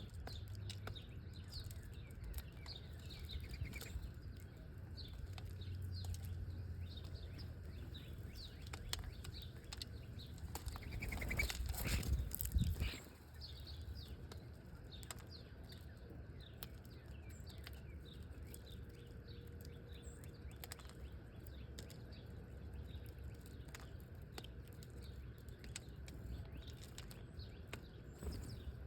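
Small wild birds chirping, with many short high calls scattered throughout. About halfway through, a louder rushing whoosh builds for a couple of seconds and then cuts off suddenly.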